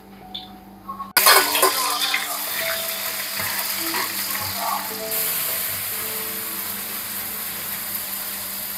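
Dried chilies and minced ginger dropped into hot soybean oil in a wok, sizzling loudly from the moment they go in about a second in. The sizzle settles into a steady frying hiss, with a metal spatula scraping as the food is stir-fried.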